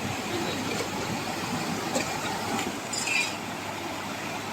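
Steady rush of flowing river water, with faint distant voices and a few light clinks about two and three seconds in.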